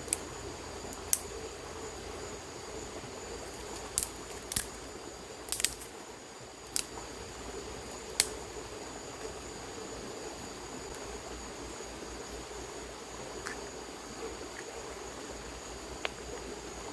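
Insects chirring steadily in two high, unbroken tones, with about eight sharp clicks and snaps scattered through, the loudest a little over a second in and about eight seconds in.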